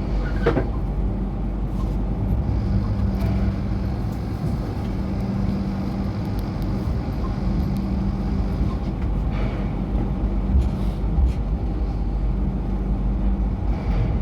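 MTR Light Rail train running along the track: a steady low rumble with a constant hum and a few scattered knocks and clicks.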